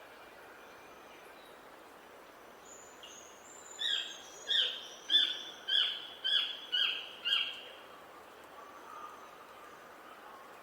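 A songbird singing a run of seven loud, repeated notes about half a second apart, each dropping in pitch, with faint high thin calls before it over a steady outdoor hiss.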